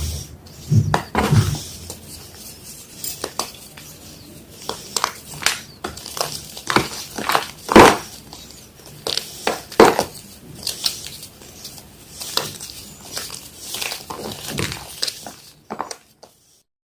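Gym chalk being crushed: irregular dry crunches and crackles, the two loudest about eight and ten seconds in. They stop about a second before the end.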